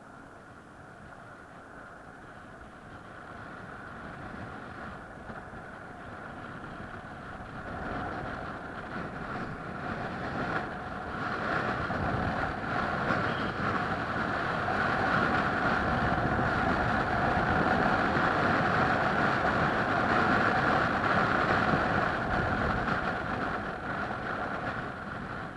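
A motor running with a steady whine that does not change pitch, growing gradually louder over the first two-thirds and easing off near the end.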